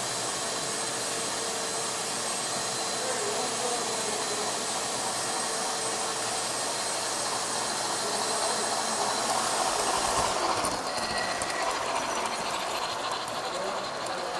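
Model Illinois Central steam locomotive train running along the layout track across a bridge: a steady hiss with a faint high whine.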